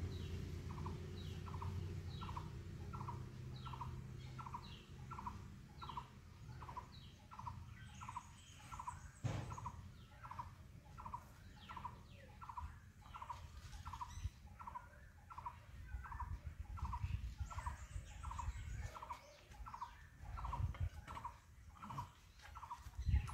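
A bird repeating one short note over and over at an even pace, about two notes a second, with a single knock about nine seconds in.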